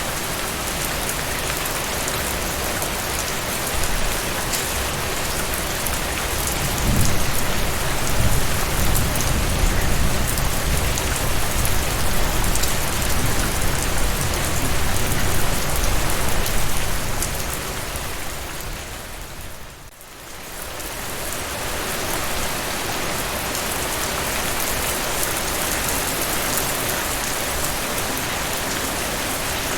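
Steady rainfall, with a low rumble swelling beneath it from about seven to seventeen seconds in. The rain fades down briefly at about twenty seconds and comes back up.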